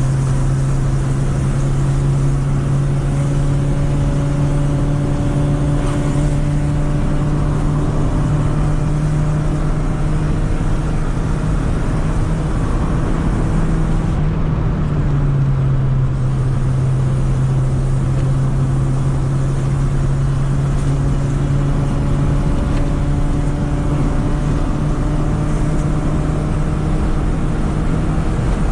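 1995 Honda Civic engine and its original exhaust, holed by rust, droning steadily at a constant engine speed. The pitch dips slightly about halfway through and then holds steady again.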